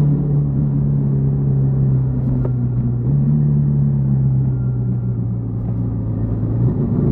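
Yamaha XTZ 150 Crosser S single-cylinder four-stroke engine running under way, its steady note stepping up about three seconds in and easing off near the end.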